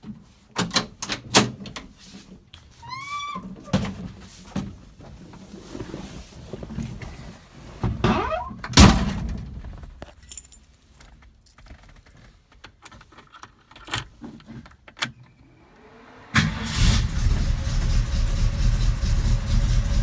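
A string of clicks and knocks with a heavy thump about nine seconds in. About sixteen seconds in, the 1969 Mustang's 351 Cleveland V8 cranks, catches and settles into a steady idle.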